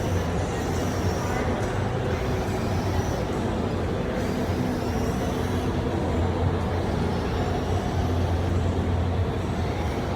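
Steady low rumble of a busy car-show hall, with a murmur of indistinct voices in the crowd.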